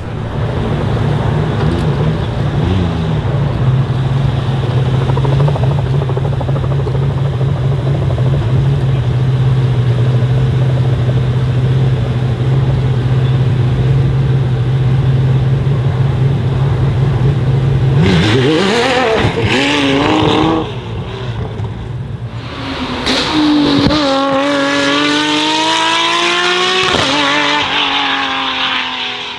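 Delage D12's 7.6-litre V12 hybrid engine idling steadily, then blipped with a few revs about eighteen seconds in. It then pulls away under hard acceleration, its pitch climbing and breaking as it changes gear.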